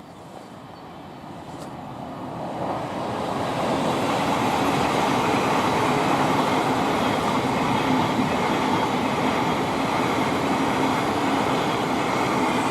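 Thameslink Class 700 electric multiple unit approaching and passing: the rush of its wheels on the rails builds over the first few seconds, then holds steady and loud.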